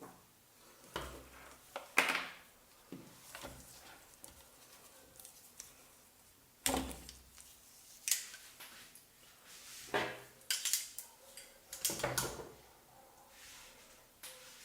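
Blender parts being handled during repair: irregular clicks, knocks and short scrapes of hard pieces being picked up, set down and worked on, with several sharper clacks spread through.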